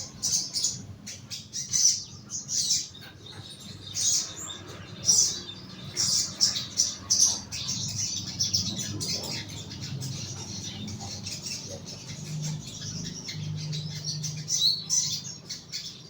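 Young sogon calling: many short, high chirps, in separate bunches at first and an almost unbroken run from about six seconds in.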